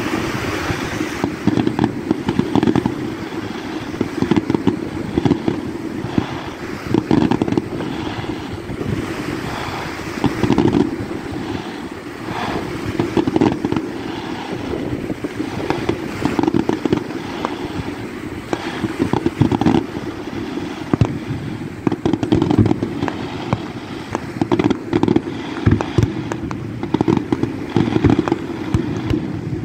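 Fireworks display: aerial shells bursting one after another with bangs and crackle, over wind rumbling on the microphone.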